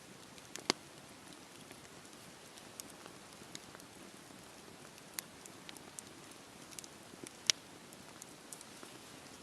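Campfire burning: a soft steady hiss of flames with scattered sharp crackles and pops from the burning wood, two much louder pops, one under a second in and one near the end.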